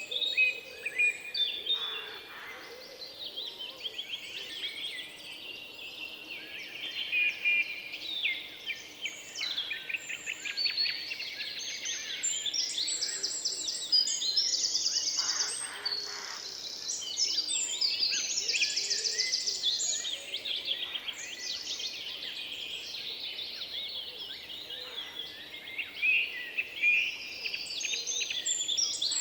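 Several songbirds singing at once, a dense mix of overlapping chirps, whistles and rapid trills.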